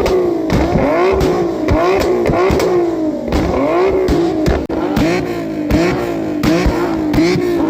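Car engine revved hard in quick repeated blips, its pitch rising and dropping back about twice a second.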